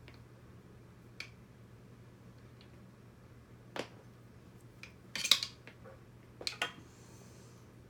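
Scattered light clicks and taps of small kit parts and cables being handled on a work surface, with the loudest cluster about five seconds in and another shortly after. A faint steady low hum runs underneath.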